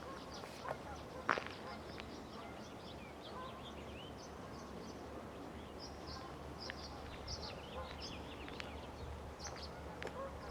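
Small birds chirping and calling in many short, high notes, with a sharp click about a second in and a low steady hum underneath.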